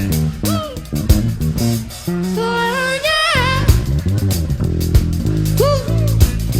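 Band music: electric bass and guitar playing lines with sliding, bent notes over drum hits.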